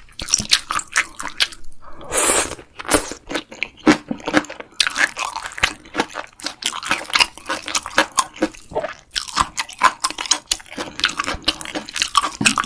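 A person chewing crunchy food close to the microphone, a rapid irregular run of sharp crunches with wet mouth sounds between them.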